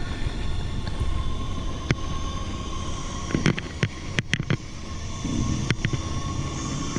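Mountain bike rolling down a dirt trail: steady wind rumble on the microphone and tyre noise, with a cluster of sharp clicks and knocks as the bike rattles over bumps in the middle.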